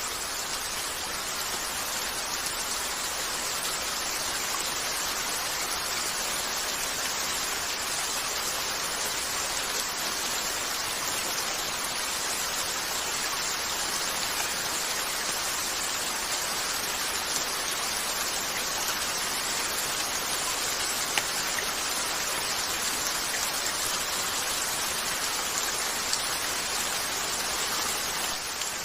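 Steady rain falling on a window, an even hiss with no breaks. A few faint sharp ticks stand out, about three over the stretch, the clearest a little past the middle.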